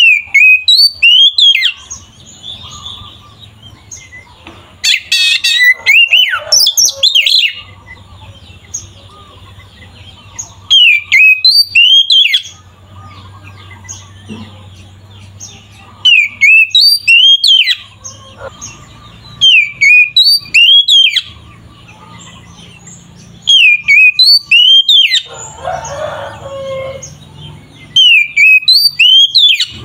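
Oriental magpie-robin (kacer) singing loud bouts of sliding whistled notes, each bout lasting one to two seconds and coming again every four to five seconds.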